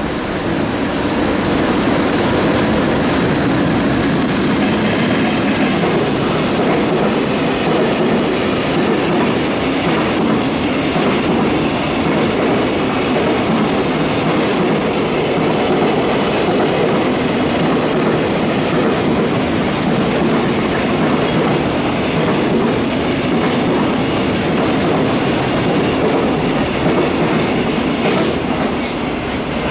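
Long container freight train hauled by an EH500 electric locomotive passing close by, its container flatcars rolling past with a loud, steady rumble and the clatter of wheels over the rails. The sound swells in the first second as the train draws level, then holds steady.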